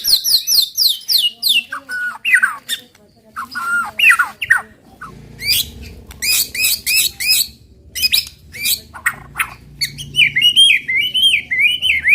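White-rumped shama (murai batu) singing a loud, fast, varied burst song of the kind called tembakan: quick runs of falling whistled notes at the start, sharp chattering chips in the middle, and a rapid series of wavering up-and-down notes near the end.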